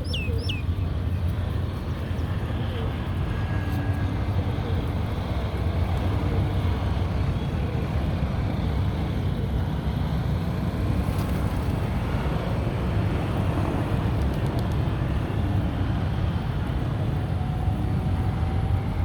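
Steady low rumble of distant road traffic, with no distinct events standing out.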